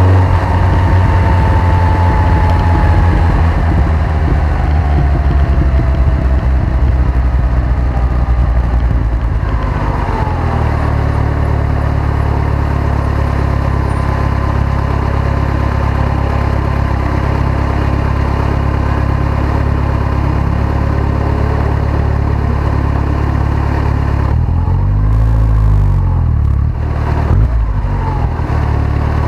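1983 Lotus Esprit Turbo's turbocharged 2.2-litre four-cylinder engine idling, with a whine that falls in pitch over the first several seconds. The idle turns steadier about ten seconds in, and near the end a brief rev rises and drops back.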